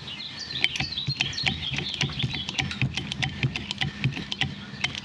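A rapid, irregular run of small mechanical clicks, several a second, from parts and tools being handled.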